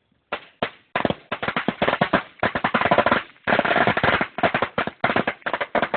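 A Fantasy Fireworks 16,000-cracker firecracker roll going off: a couple of single pops, then a rapid, dense crackle of bangs with brief lulls.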